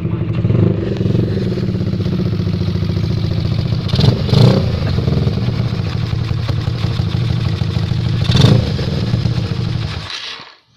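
Honda CS1 motorcycle engine fitted with a CBR150R cylinder head, running steadily and loudly. It gives three short throttle blips, two about four seconds in and one a little past eight seconds, then cuts off near the end.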